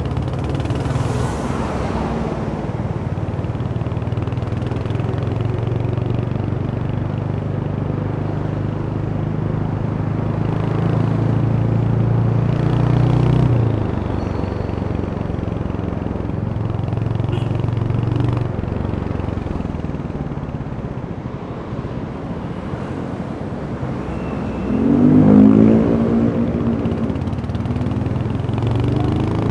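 Royal Enfield Hunter 350's single-cylinder engine running under way, its note building until about 13 seconds in and then dropping off. About 25 seconds in the engine revs up sharply as the bike accelerates, the loudest moment.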